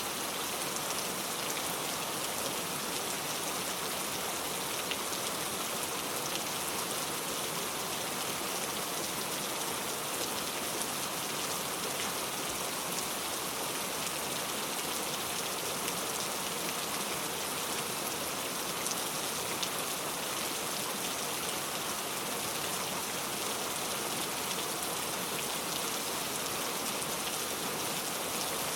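Steady, heavy rain falling, a dense even hiss of drops that does not change.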